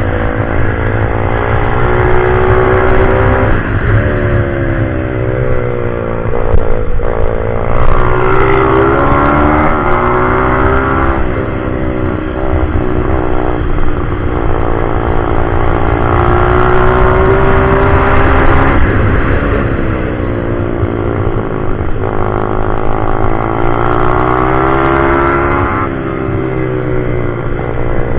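Pit bike engine being ridden hard, its pitch climbing under acceleration and dropping back several times as it speeds up and slows.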